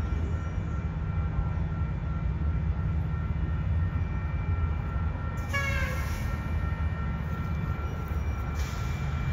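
Train rolling along the rails with a steady low rumble and a thin steady high whine. A short tone, sliding slightly down in pitch, sounds about halfway through.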